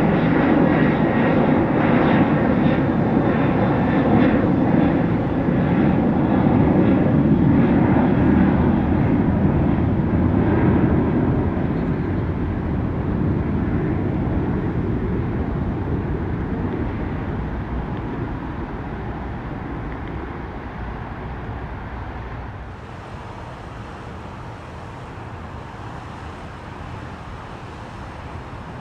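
Jet airliner departing under takeoff power, a loud steady engine rush that fades away over the second half.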